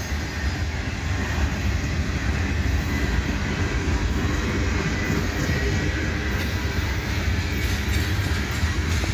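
Freight train cars rolling past on the track: a steady, continuous noise of steel wheels running on the rails.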